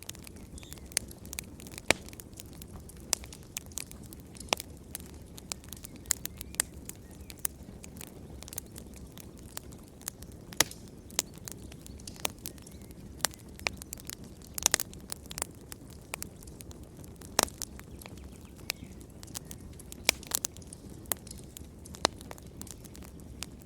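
Wood fire crackling and popping: sharp irregular snaps, a few louder pops among many small ones, over a low steady rumble of burning.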